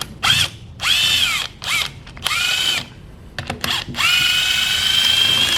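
Handheld power drill/driver spinning out a long engine bolt: several short trigger bursts whose whine rises and falls in pitch, then a longer steady run near the end.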